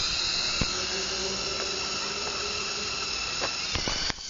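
Electric motors and rotors of a radio-controlled Chinook tandem-rotor helicopter running with a steady high-pitched whine, dipping briefly near the end.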